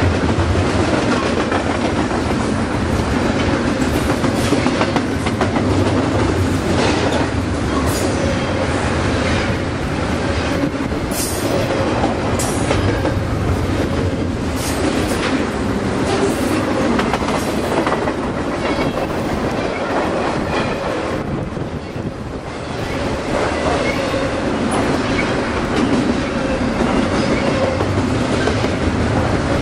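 Double-stack intermodal container freight train rolling past close by: a steady rumble and clatter of steel wheels on the rails, with short sharp metallic sounds scattered through the middle and a brief drop in loudness about two-thirds of the way through.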